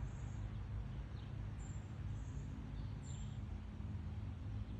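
Outdoor ambience: a steady low rumble with faint, brief high-pitched bird chirps every second or so.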